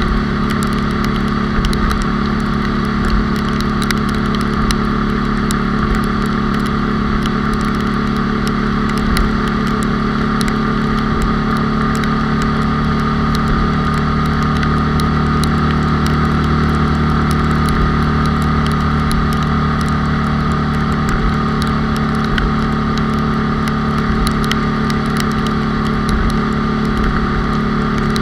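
A Honda Cub's 97 cc single-cylinder four-stroke engine running steadily at a constant cruising pace, heard from on board the moving motorcycle. The pitch shifts only slightly.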